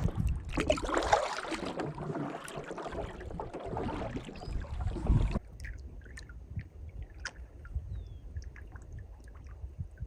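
Paddling a canoe in wind: water splashing and swishing around the paddle and hull, with wind on the microphone. About five seconds in it drops abruptly to a quieter stretch of small drips and clicks over a low rumble.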